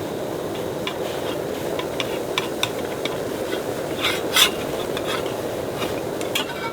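Food sizzling in a hot pan while being stirred, with a utensil scraping and clicking against the pan and one louder clatter a little past the middle.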